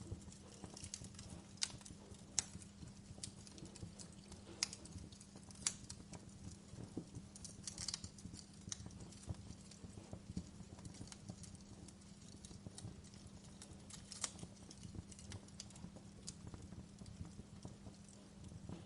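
Wood fire crackling in a fireplace: irregular sharp pops and snaps from the burning logs over a steady low hum.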